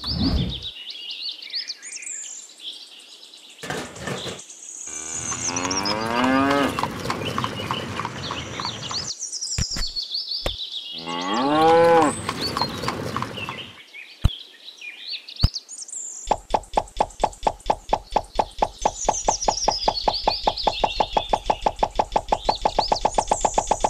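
Cattle mooing: two long moos about five and eleven seconds in, the second the louder, over high bird chirps. A few sharp knocks follow, and in the last seven seconds a fast, even pulsing sound runs at about eight pulses a second.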